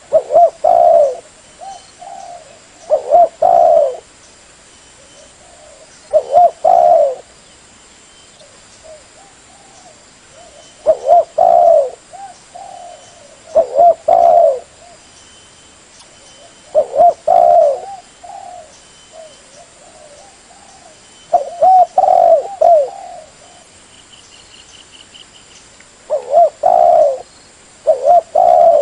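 Spotted dove cooing in loud repeated phrases every three to five seconds, with softer coos in between: a tekukur lure call. Faint high chirping of a small bird near the end.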